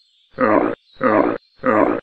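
A camel giving three short throaty calls in quick succession, each under half a second long.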